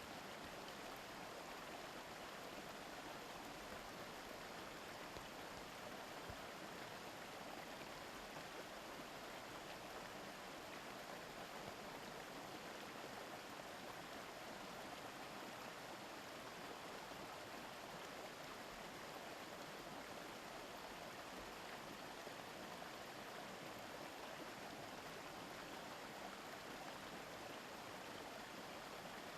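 A mountain stream babbling steadily over stones, an even rush of flowing water with no change in level.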